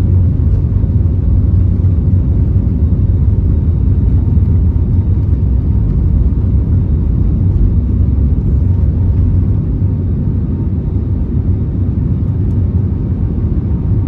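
Airbus A320neo cabin noise during takeoff: a loud, steady low rumble of the engines at takeoff power and the airflow, easing slightly near the end.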